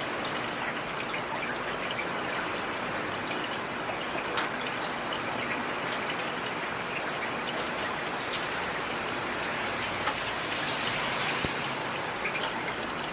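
Steady rain falling, with individual drops striking close by now and then as sharp clicks.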